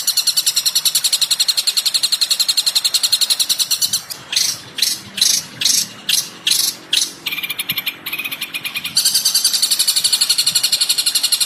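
Recorded bird song played as training material for caged shrikes: a fast, even, high trill that breaks off about four seconds in for a series of about eight loud separate notes, then a lower trill, before the fast high trill comes back near the end.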